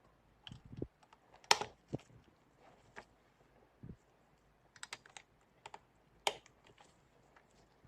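Irregular light clicks and taps of small hard objects being handled, with two sharper knocks about a second and a half in and about six seconds in.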